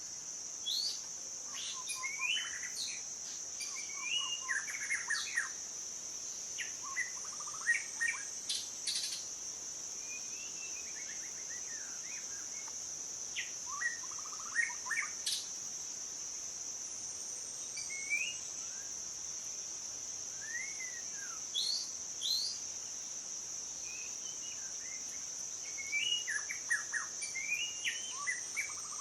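Several songbirds chirping and singing short, scattered whistled phrases and trills over a steady, high-pitched insect buzz.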